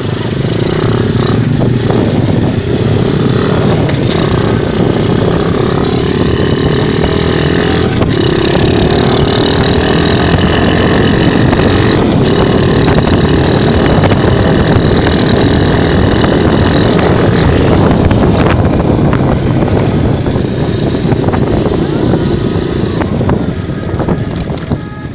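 Mini motocross bike engine running under way, its note climbing a little over the first several seconds and then holding steady. It dies down near the end.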